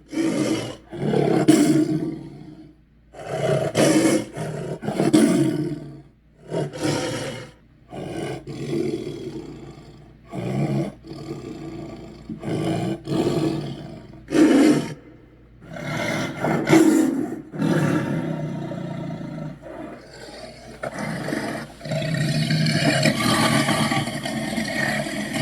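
Kaiju-dragon roar sound effects: a string of short, loud monster roars with brief gaps, then one long unbroken roar over the last few seconds.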